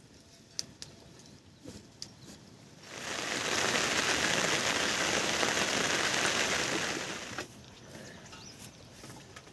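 Steady rain hiss that swells up about three seconds in, holds loud for about four seconds, then drops away, with scattered light ticks of drops before and after.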